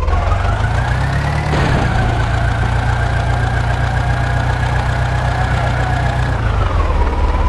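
Diesel engine of a tractor or backhoe loader running under throttle: it revs up over the first second and a half, holds a steady higher speed, then drops back to a lower speed near the end.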